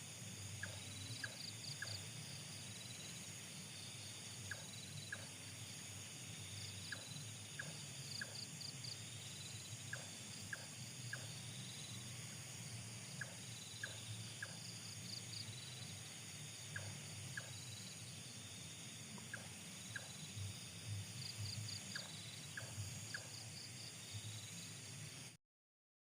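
Night insects, crickets among them, chirping steadily in pulsed trills, with scattered short clicks throughout and a low rumble underneath; the sound cuts off abruptly near the end.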